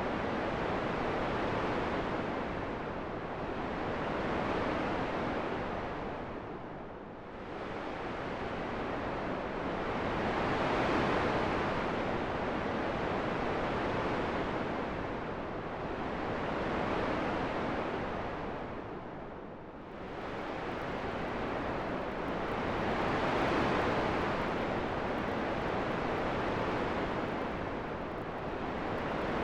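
Steady rushing wind noise that swells and eases every few seconds, dropping away most deeply twice before building again.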